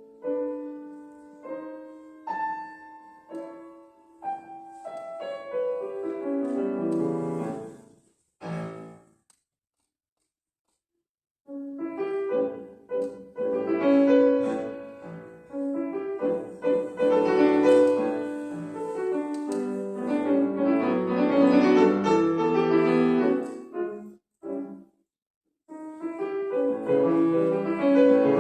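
Piano music: spaced chords that gather into a falling run. Then a pause of about two seconds, followed by a loud, dense passage of chords and runs, broken twice by very short breaks near the end.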